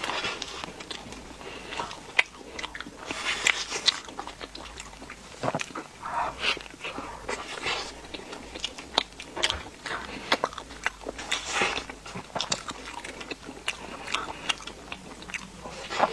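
Close-miked eating of pastries: irregular bites, crunches and chewing with wet mouth sounds, coming in uneven bursts.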